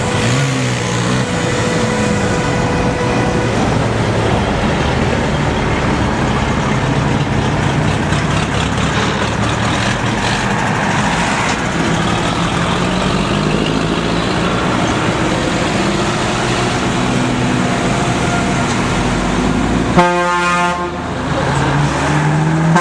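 Tractor engines running and changing speed as they pass. A horn sounds steadily for the first three or so seconds, and a short horn blast comes near the end.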